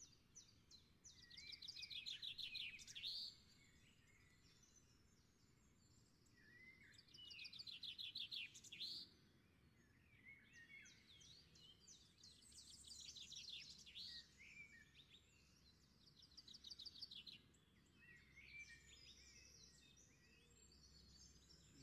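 Faint songbird singing: a fast trilled phrase repeated four times, a few seconds apart, with scattered chirps in between.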